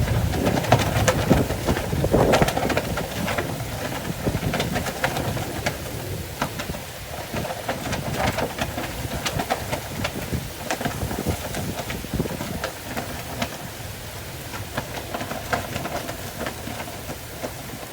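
Summer rain falling, with many individual drops landing close by as sharp ticks. A low thunder rumble fades away over the first few seconds, and the whole sound slowly gets quieter.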